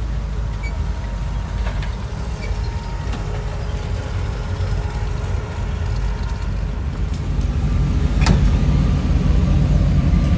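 Car engine running with a low rumble that grows louder over the last couple of seconds. One sharp click comes about eight seconds in.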